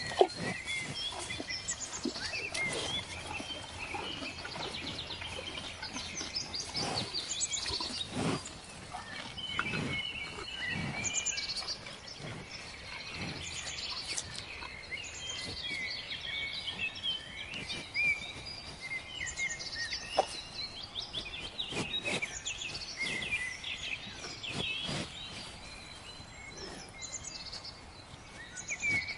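Many small birds chirping and twittering without a break, with scattered soft knocks and one sharp knock right at the start.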